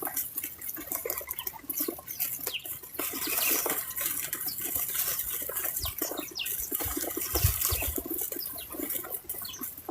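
Backyard feeder ambience: a dense, irregular patter of small clicks and rustles, with brief high bird chirps scattered through it.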